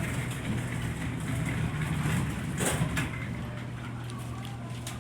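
Delivery truck engine idling, a steady low hum, with one brief sharp noise nearly three seconds in.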